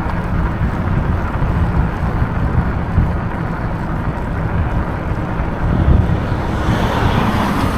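Wind rumbling on the microphone of a moving e-bike, with a car coming up from behind and overtaking; its tyre noise swells near the end.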